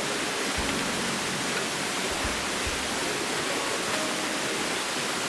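River water flowing: a steady rushing hiss with no change in level.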